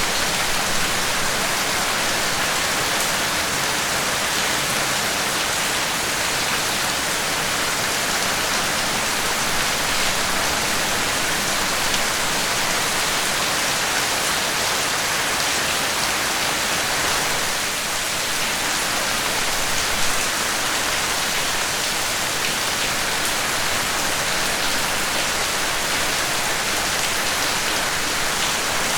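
Steady, heavy rain falling, an even hiss with scattered drops hitting a surface.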